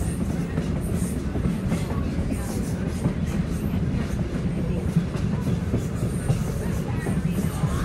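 Railway car rolling along the track, heard from on board: a steady low rumble of wheels on rail with scattered light clicks.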